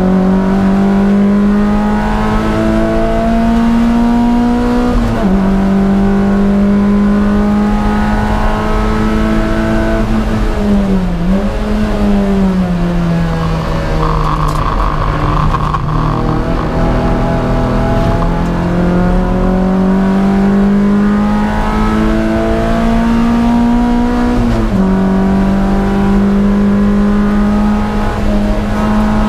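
Toyota MR2 race car's engine heard from inside the cabin, pulling hard with its pitch climbing slowly through each gear. There is a sharp upshift about five seconds in. Around eleven seconds the pitch falls and wavers, then it climbs again to another upshift near the end.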